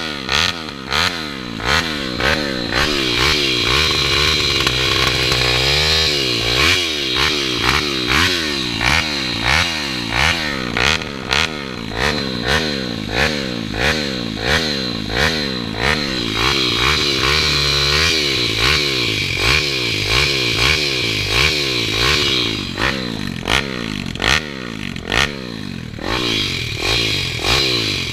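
A 190cc Daytona pit bike's four-stroke single-cylinder engine being ridden hard, its revs surging up and dropping back over and over, about twice a second, with a couple of brief steadier pulls.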